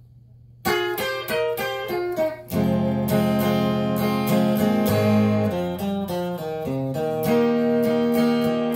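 Acoustic guitar playing the intro of a country song. It comes in under a second in with a quick run of single picked notes, then moves to ringing chords with low bass notes from about two and a half seconds in.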